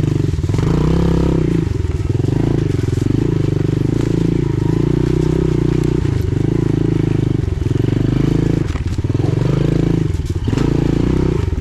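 Pit bike engine running loud under throttle as it is ridden, the revs swelling and easing off every second or two.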